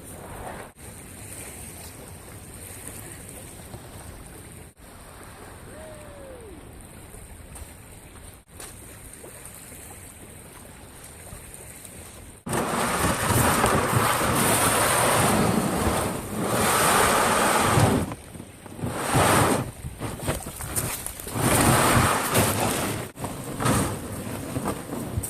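Wind and choppy, whitecapped lake water. About halfway through it cuts to much louder wind gusts buffeting the microphone, swelling and dropping every second or two.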